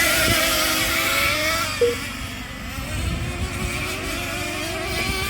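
Several nitro RC race trucks' small glow engines running on track together, a high buzzing whose pitch rises and falls as the trucks rev and lift off. A short sharp blip stands out about two seconds in.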